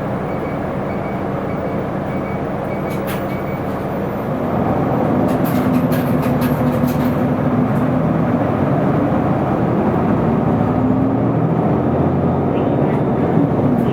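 Running noise inside an Isuzu Erga city bus (type PKG-LV234L2): steady diesel engine and road noise that grows louder about four seconds in as the engine pulls harder, with a few sharp clicks or rattles in the middle.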